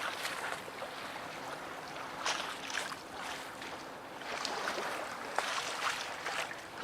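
Harbour waves lapping and splashing against the quay wall, in irregular small splashes every second or so over a steady wash of water.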